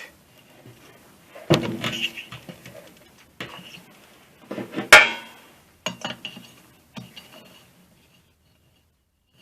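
Metal parts of an air compressor pump clinking and knocking as the head and its bolts are fitted, with about four separate knocks, the loudest about five seconds in.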